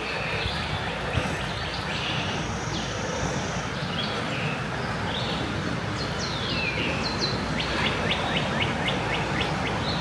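Wild birds singing: short whistled notes, several sliding downward, with a quick run of rapid notes near the end, over a steady background rush.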